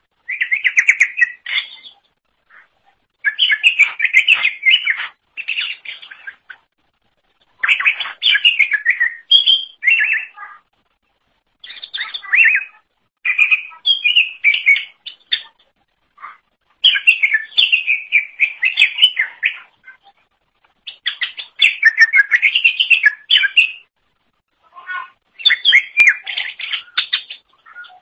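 Cucak ijo (green leafbird) singing loudly and continuously: rapid, varied warbling phrases of two to four seconds each, about seven in a row with brief pauses between them.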